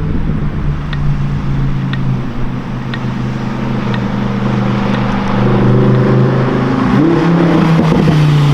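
Lamborghini Huracan Performante's naturally aspirated V10 running at a steady low speed, getting louder, then revved sharply about seven seconds in, its pitch climbing near the end. Faint ticks sound about once a second early on.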